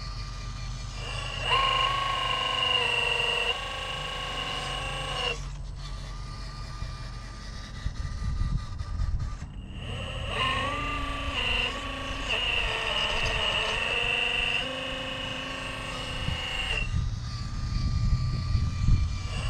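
Scale RC crawler's electric motor and drivetrain whining in spells as it drives, the pitch stepping up and down with the throttle. Wind rumbles on the microphone underneath.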